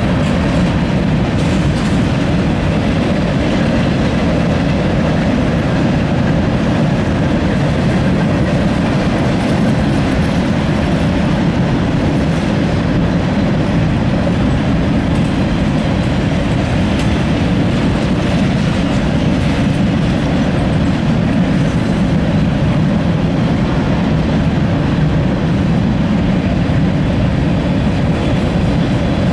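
Freight train of loaded covered hopper cars rolling past close by: a loud, steady rolling noise of steel wheels on the rails that does not let up.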